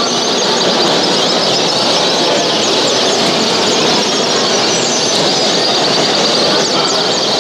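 A dense chorus of many caged show birds chirping and singing at once: a steady wash of sound thick with short, high chirps and trills.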